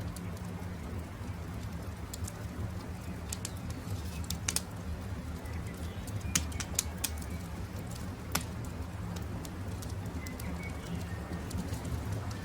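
Campfire crackling, with irregular sharp pops over a steady low rumble, and faint bird calls a few times in the background.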